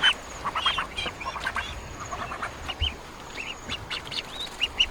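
Several ducks quacking, many short calls overlapping and following one another irregularly.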